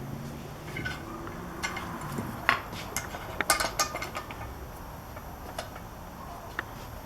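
Metal clinks and rattles of a chainsaw chain and bar being handled and fitted onto the saw, with a quick run of sharp clinks in the middle and a few single clicks later.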